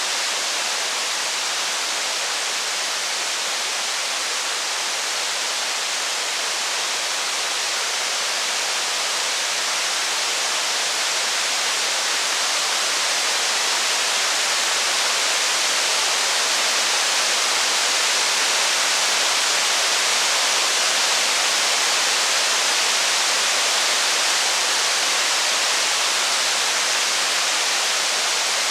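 Steady rain falling on a wooden cabin: an even, unbroken hiss that grows slightly louder past the middle.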